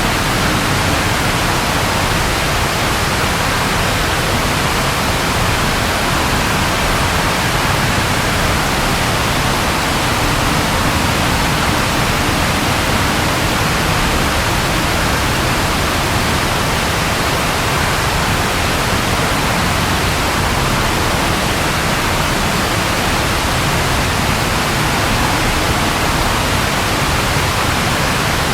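Rain falling steadily, an even, unbroken hiss with no distinct thunderclap.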